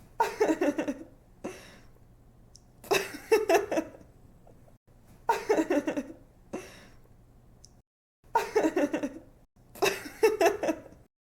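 A young woman laughing in five bursts of quick, pulsing giggles with short pauses between them, over a faint low hum. The laughter stops abruptly near the end.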